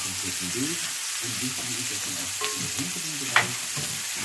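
A steady hiss with two sharp clicks about a second apart in the second half, over a low wavering sound underneath.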